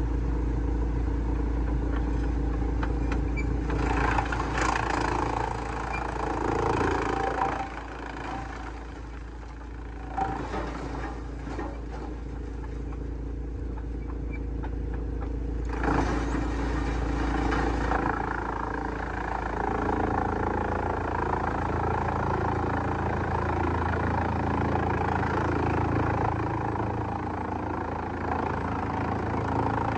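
Heavy-duty wood shredder running, its engine steady, with loud stretches of grinding noise as wood goes through, about four seconds in and again about sixteen seconds in, and a few sharp knocks in between.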